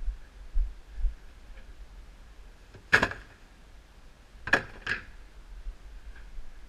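Three sharp clicks or knocks: one about three seconds in, then two close together about a second and a half later, with a few dull low thuds near the start.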